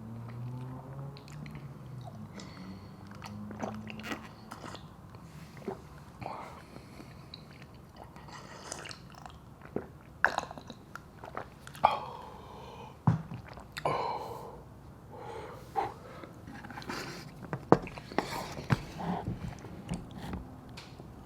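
Close-miked chewing of noodles and dumplings: irregular wet mouth smacks and clicks, with a few sharper smacks standing out.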